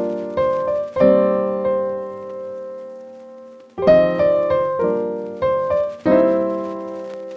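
Piano music: chords struck and left to ring, one held and fading for a couple of seconds before more chords come in near the middle.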